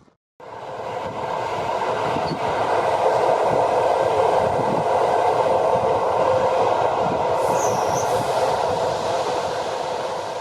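Passenger train running on the rails: a steady rumble of wheels and rail noise that builds over the first couple of seconds and fades near the end, with a faint brief high squeal partway through.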